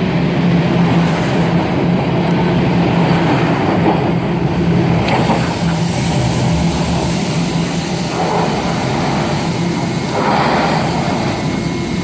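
TTC subway train running: a steady low hum under a loud rushing noise that grows brighter about halfway through.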